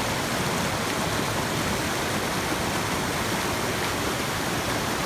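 Fast, strong stream of water rushing steadily, loud enough to drown out conversation.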